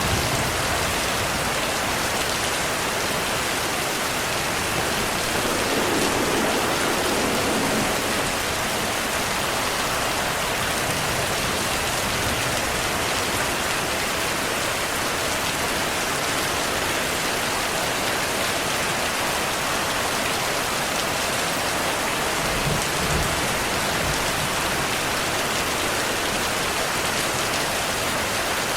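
Steady heavy rain falling, with soft low rumbles of thunder about six seconds in and again past the three-quarter mark.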